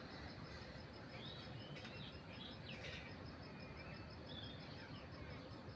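Birds chirping faintly, scattered short calls over a steady background hiss, with a fast, even, high-pitched insect pulsing running underneath.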